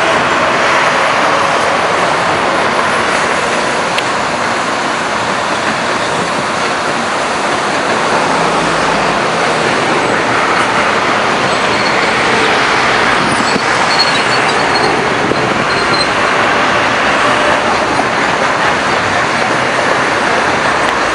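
Electric commuter train passing, a steady mix of wheel-on-rail running noise and traction motor sound. A few faint high squeals come in around two-thirds of the way through.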